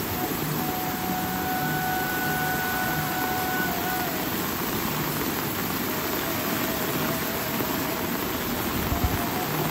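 Steady rain falling, an even hiss. About a second in, a thin steady tone sounds for about three seconds.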